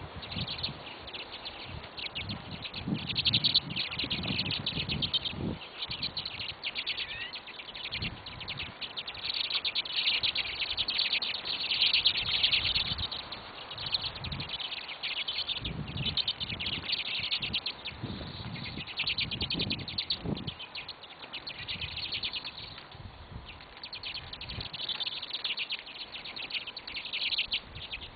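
A group of small birds chirping and twittering rapidly and continuously, in louder bursts, with scattered low thumps.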